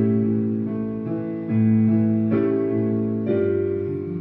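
Instrumental passage on piano or electric piano: sustained chords changing about once a second, between sung lines of a song.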